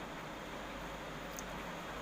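Steady background hiss, like a fan or room noise, with one faint high tick about one and a half seconds in.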